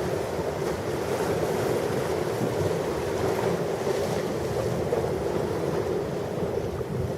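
Ocean waves washing onto a shore in a steady, continuous rush of surf, with no single crash standing out.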